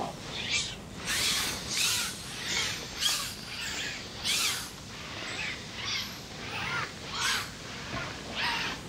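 Birds calling: a long series of short calls, about one or two a second, some louder than others.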